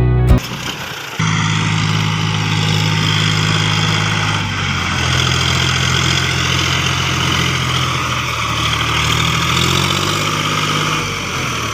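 John Deere 5050D tractor's three-cylinder diesel engine running steadily, coming in about a second in, its pitch shifting slightly a few seconds in and again near the end.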